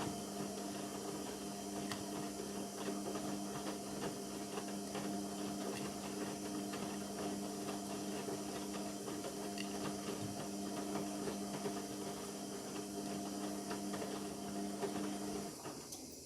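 Indesit MTWC71252WUK washing machine running mid-cycle: a steady motor hum with light clicking and swishing from the load, cutting off suddenly near the end.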